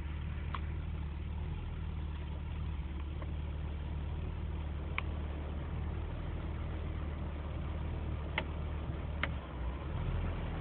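Chevrolet Omega 3.0's straight-six idling steadily, heard from inside the cabin, with four short clicks of the dashboard push-buttons being pressed, two of them close together near the end.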